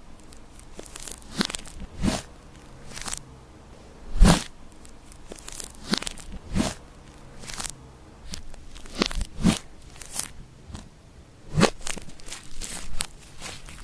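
Slime being mixed and pressed by hand, giving irregular sticky pops and crackles, about one or two a second.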